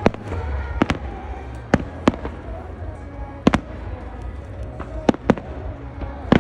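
Fireworks bursting: about eight sharp bangs at uneven intervals, two pairs close together, with music playing underneath.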